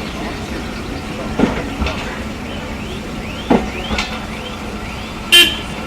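Train running on the track: a steady rumble with irregular knocks, brief wheel squeals in the middle and a sharp bang near the end.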